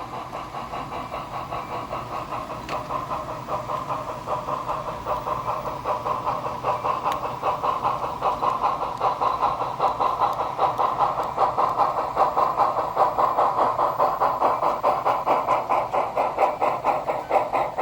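Model train running on a layout, a steady hum with a rhythmic pulse of about three to four beats a second that grows louder as the train comes closer.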